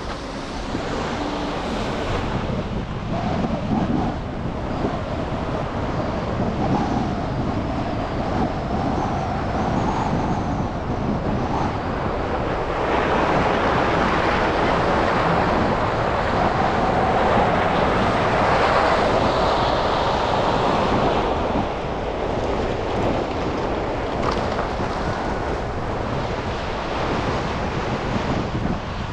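Steady rush of city traffic and tyre noise on snowy streets, heard from a driving car, growing louder roughly halfway through and easing again after.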